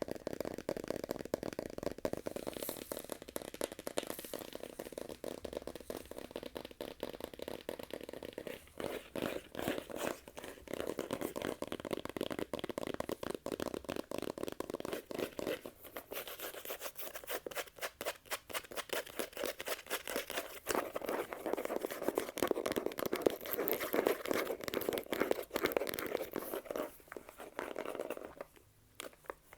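Fast close-microphone ASMR hand sounds and tapping: a dense, rapid run of clicks, taps and rustling rubs that pauses briefly near the end.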